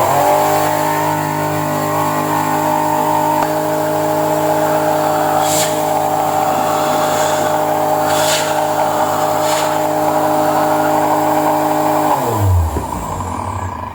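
Panasonic MC-CJ911 canister vacuum cleaner's 2100 W motor switched on, running with a steady whine and a few short hisses, then switched off and spinning down about twelve seconds in. It makes a strange noise that the repairer traces to a broken motor bearing and worn carbon brushes.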